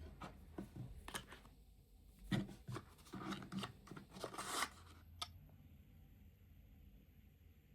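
Small handling sounds up close: a run of light clicks, scrapes and rustles through the first five seconds, with a last single click, then only faint room tone.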